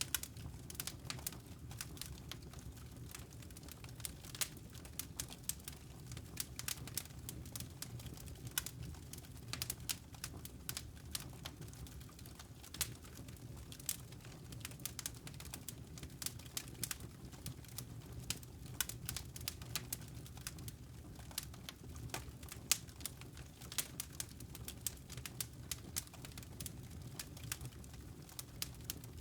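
Wood fire crackling in a fireplace: irregular sharp pops and snaps scattered over a low steady rumble.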